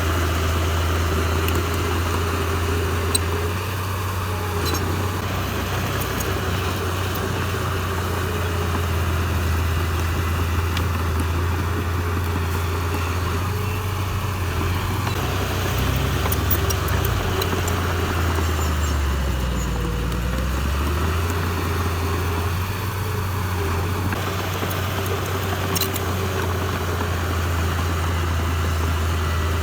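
Heavy diesel engine of earthmoving machinery running steadily. Its pitch sags and comes back up about two-thirds of the way through, as under a load, with a few faint clicks.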